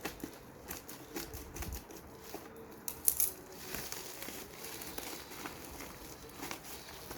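Packaging crinkling and rustling with many small irregular clicks and taps as the ordered lamps are unwrapped and handled; the loudest rustle comes about three seconds in.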